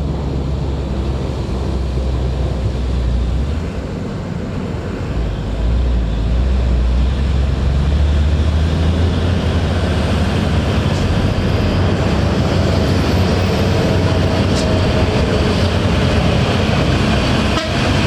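Heavy diesel truck engine running, a deep steady drone that grows louder about six seconds in.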